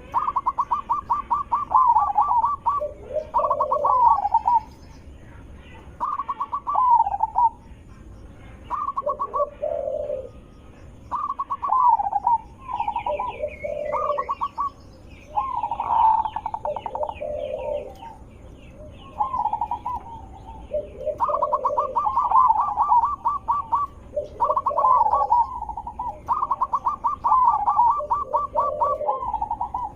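Zebra dove (perkutut) singing: repeated phrases of quick staccato notes, each ending in a lower coo, coming every two to three seconds. Faint high chirps from another small bird come in about midway.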